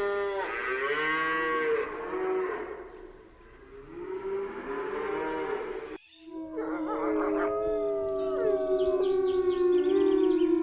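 Animal calls: two long pitched calls that rise and fall, then, after a sudden cut about six seconds in, several overlapping long, steady howling tones.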